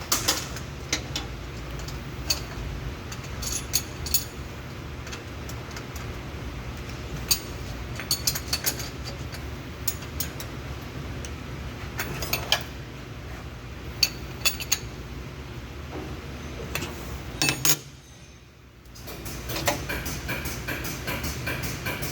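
Metal hand tools and parts clinking and tapping in short, irregular strikes over a steady low hum, with a short quieter gap a few seconds before the end.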